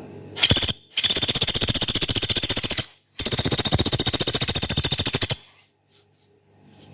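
A pelatuk beras pygmy woodpecker giving long, harsh, rapid rattling trills: a short burst, then two long rattles of about twenty notes a second with a brief break between them.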